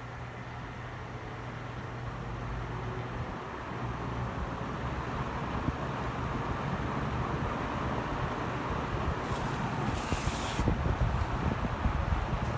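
Vintage Eastern box fan running on high: a low motor hum under a whoosh of air that grows steadily louder as the blades come up to speed. A brief high hiss about nine seconds in.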